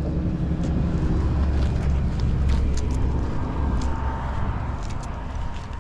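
A motor vehicle's engine running close by: a low rumble that is strongest in the first couple of seconds and then eases off.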